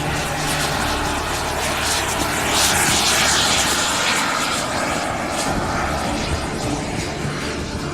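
Radio-controlled model airplane engine passing overhead in flight, the engine noise swelling to its loudest about three seconds in and then fading.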